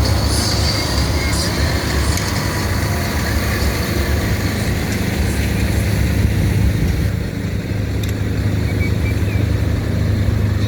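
Tractor engines running with a steady low drone.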